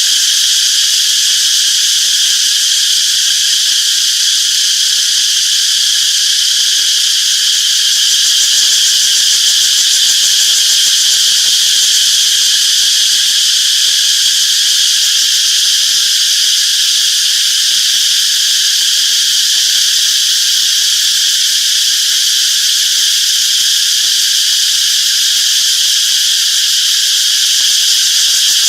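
Cicadas chorusing, a loud, unbroken, high-pitched buzz that holds steady without pauses.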